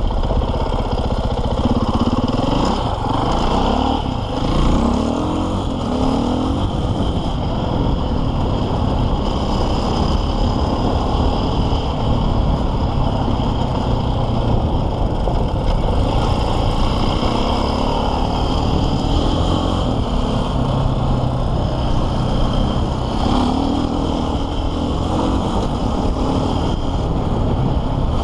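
KTM 450 EXC enduro motorcycle's single-cylinder four-stroke engine running under way off-road, revving up and down with the throttle in the first few seconds and again later on.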